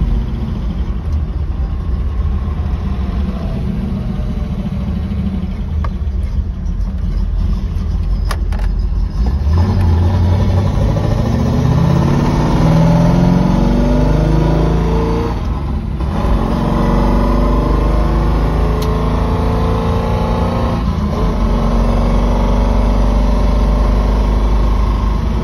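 1969 Camaro Z/28's 302 V8 with its optional performance camshaft, heard from inside the cabin while driving. It runs steadily at first, then pulls with rising revs from about ten seconds in. The revs break near sixteen seconds in for a gear change, then climb again more slowly.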